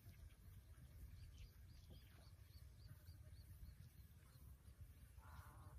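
Faint bird calls: a run of about ten short high chirps, some four a second, starting about a second in, then a short buzzy sound near the end, over a steady low rumble.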